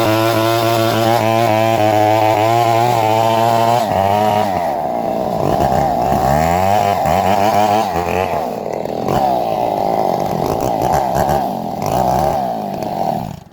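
Two-stroke chainsaw running at a steady high speed for about four seconds, then revved up and down several times, and shut off near the end.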